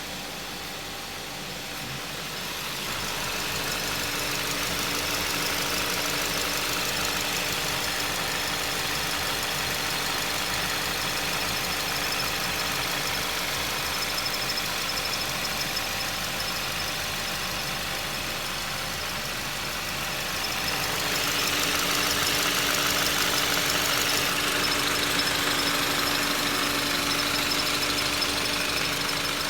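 Skoda Octavia A7 engine running with a steady whistle, which the owner puts down to a crankshaft bearing. The sound grows louder about three seconds in and again about twenty-one seconds in.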